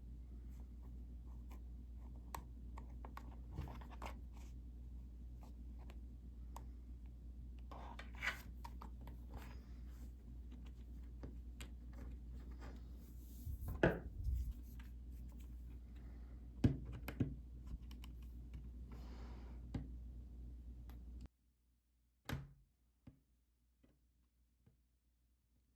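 Small handcraft noises: scattered scratching, rustling and clicks of hands working yarn through a plastic mesh, with a few louder snips or knocks, over a steady low hum. The hum cuts out suddenly near the end, leaving near silence.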